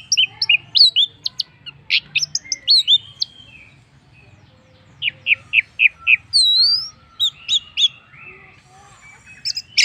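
Orange-headed thrush singing: rapid, varied phrases of short whistled notes, slurs and a run of quick down-slurred notes, broken by brief pauses.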